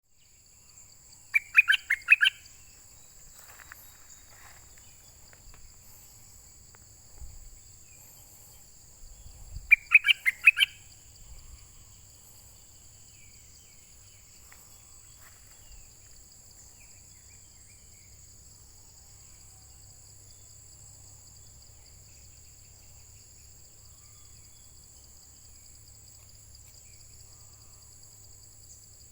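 A songbird, the one locally called nok dok taeng, gives a mate-attracting call twice, each a quick run of four or five loud notes, about eight seconds apart. A steady high hiss runs under it.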